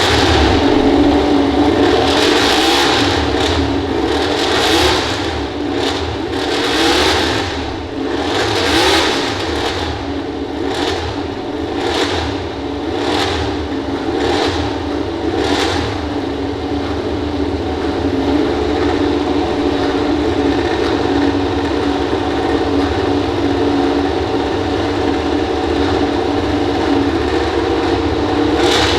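MotoGP prototype race-bike engines, loud: repeated surges of revving in the first half, quickening to about one a second, then a steady running note.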